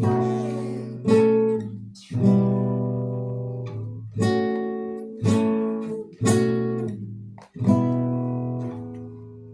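Acoustic guitar playing chords. A chord is struck roughly once a second and left to ring and fade before the next.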